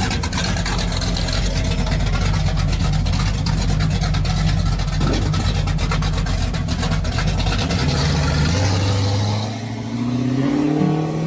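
A car engine running loud and steady with a rapid, pulsing exhaust note. It fades about nine seconds in as music comes in.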